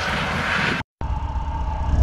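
Rushing noise of a train pushing through snow cuts off abruptly just before a second in. After a moment of silence, a low locomotive rumble with a faint steady tone starts and grows louder toward the end.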